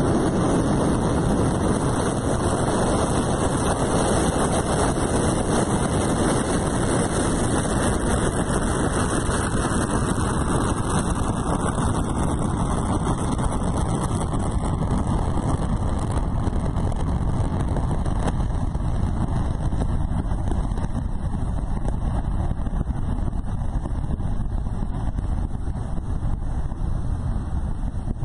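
Rocket launch rumble: a loud, steady noise that dulls from about ten seconds in, its higher part fading while the low rumble holds.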